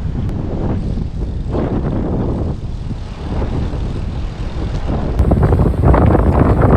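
Wind buffeting the microphone of a moving cyclist, a loud, fluttering rumble that grows louder about five seconds in.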